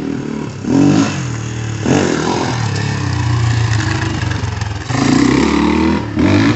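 Dirt bike engine running, revving up in several surges: about a second in, near two seconds, and twice more near the end.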